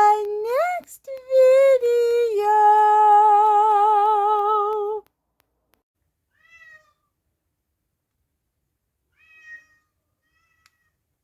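A cat meowing: a long drawn-out meow with a wavering pitch lasting about five seconds, then three faint short meows spaced a few seconds apart.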